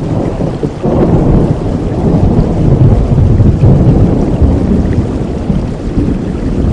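Rain falling, with a long low roll of thunder that swells about a second in and rumbles on for several seconds.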